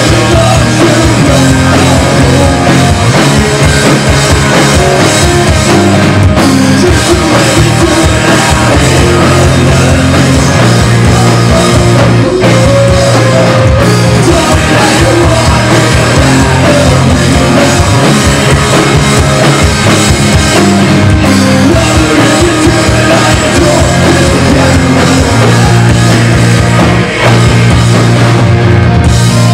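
Live rock band playing loudly, drum kit driving the song, with a brief drop in level near the end.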